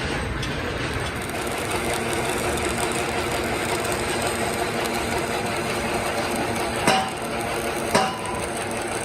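Workshop machinery running with a steady mechanical drone. Near the end come two sharp metal strikes about a second apart, each ringing briefly.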